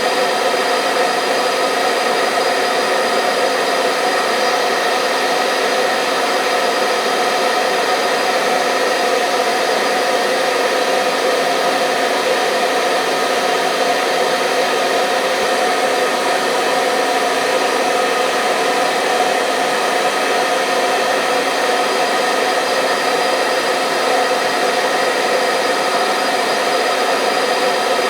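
Hair dryer running continuously: a steady, even whoosh of blown air with a constant motor hum and whine.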